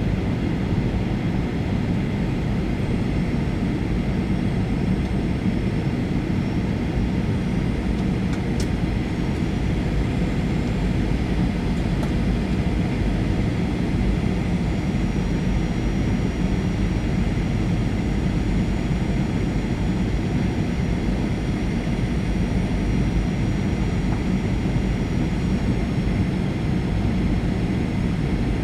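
Steady in-flight cabin noise of a Boeing 737-800, heard inside the cabin: the rush of airflow and the hum of its CFM56 engines, strongest in the low range, with a few faint, thin high whines laid over it.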